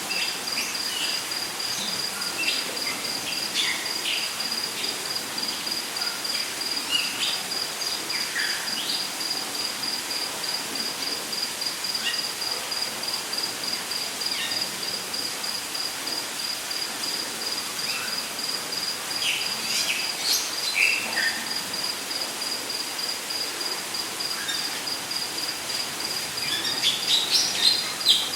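Rainforest night-insect chorus: a cricket-like insect keeps up a steady, high, pulsing trill. Scattered short bird chirps and calls come over it, with a quick run of chirps near the end.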